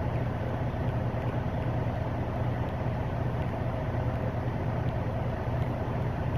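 Semi-truck's diesel engine running with a steady low drone, heard inside the cab.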